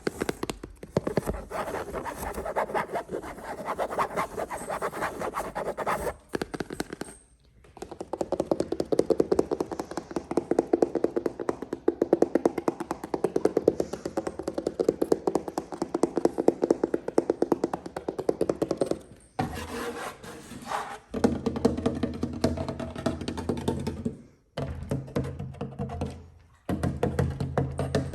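Rapid tapping and scratching on objects, in several long runs broken by short pauses.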